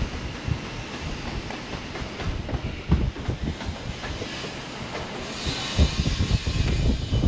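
Construction site work noise: a steady mechanical hiss with many irregular knocks and clanks, getting busier and louder near the end.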